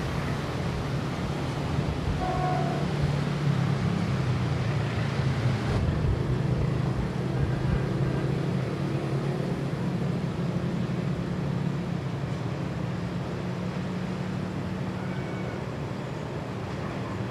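A freight train of open wagons rumbling along the rails with a steady low hum, slowly fading as it moves away.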